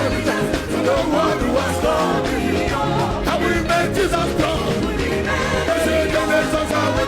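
Live gospel worship band playing an upbeat song with a steady, heavy beat and voices singing.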